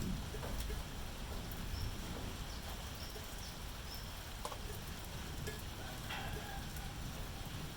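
Steady rain with scattered drop ticks and a low rumble at the start fading away, with a few faint short high calls, perhaps from an animal or bird, near the middle.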